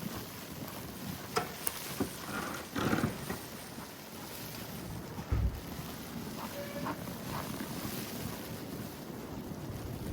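Wind buffeting the microphone over steady outdoor street noise during a snowstorm, with a few short clicks and knocks early on, a brief louder rush about three seconds in and a short low thump about halfway.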